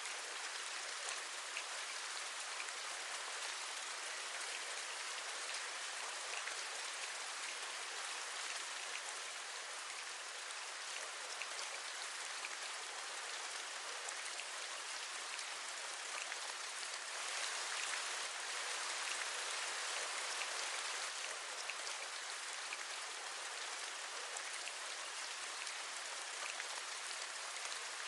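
Steady rain, an even hiss with faint scattered drop taps, growing louder for a few seconds a little past the middle.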